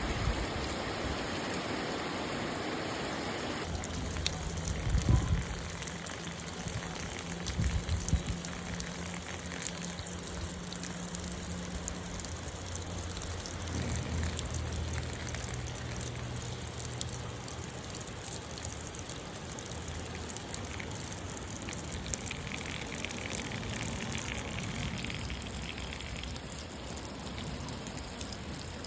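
Steady rain falling, with water running and trickling. A low steady hum sounds through much of it, and there are a couple of thumps early on.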